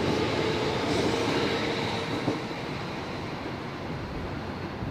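Electric commuter train running past close by and then moving away, its wheels rattling over the rails, with a steady hum that stops a little over two seconds in. The sound then grows quieter as the last car pulls away.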